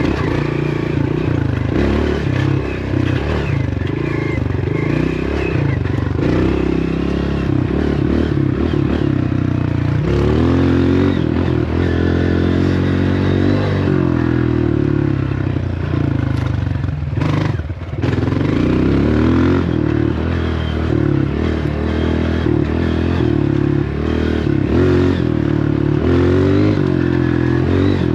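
Dirt bike engine running under way, its pitch rising and falling with the throttle, with clattering and scraping from riding over rough ground. The engine note briefly drops off about two-thirds of the way through.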